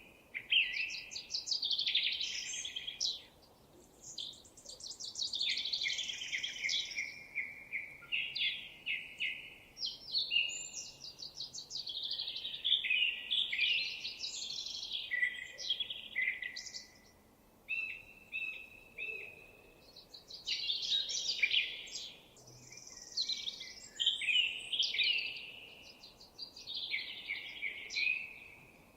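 Songbirds singing: a near-continuous run of varied warbled phrases and fast trills, one after another with short pauses.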